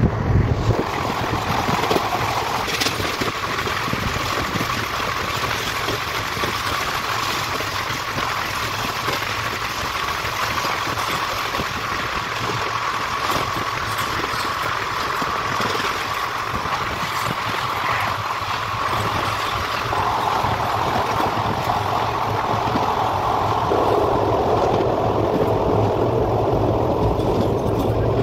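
Indian Railways passenger train running at speed, heard from an open coach door: a steady, loud running noise of wheels on the rails and the rattling coach.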